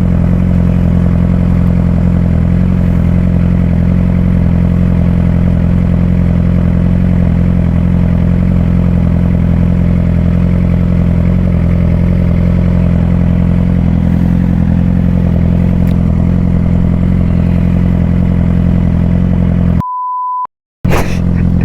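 Suzuki GSX-R600 inline-four engine idling steadily at an even pitch. Near the end the sound cuts out, a short beep tone plays, and then the engine sound comes back.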